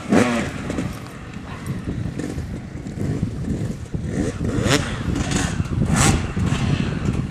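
Yamaha YZ250 two-stroke single-cylinder motocross engine revving up sharply at the start, then running rough under changing throttle, with hard bursts of throttle about five and six seconds in.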